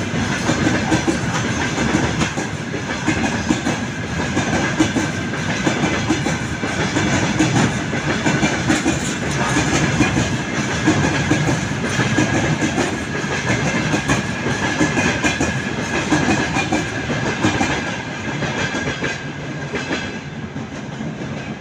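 Flatcars of a works train, loaded with concrete-sleeper track panels, rolling past with a continuous clatter of wheels over rail joints and a steady high whine. The noise dies away over the last few seconds as the final wagons pass.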